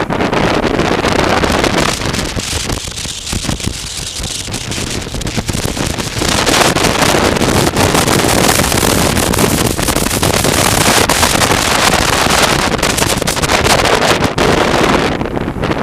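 Wind rushing over the microphone of a moving motorcycle, with the engine running beneath it. The rush eases for a few seconds, grows louder again about six seconds in, and drops briefly near the end.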